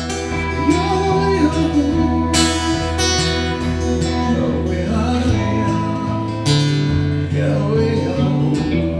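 Live acoustic guitar music: strummed chords over held low bass notes, with no lyrics sung.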